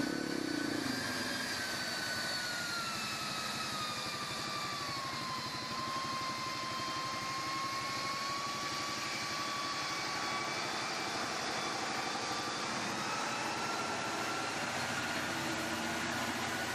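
Engine of an off-road 4x4 vehicle running steadily under load as it struggles through deep mud, with a high whine that slides down in pitch over the first few seconds and then holds steady.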